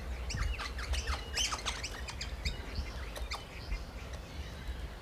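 Birds squawking and chirping at a feeder: many short, sharp calls in quick succession over the first three seconds or so, thinning out near the end.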